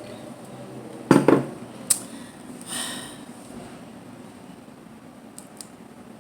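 Dishes and cutlery being handled at a seafood meal: two heavy knocks in quick succession about a second in, a sharp click just after, then a short scrape and a few light clicks near the end.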